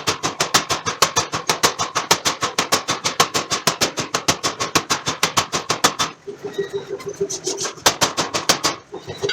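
Forging hammer striking a steel billet in a rapid, even run of blows, about five to six a second, for about six seconds. The blows then stop, leaving a steady hum, and a short burst of further blows comes near the end.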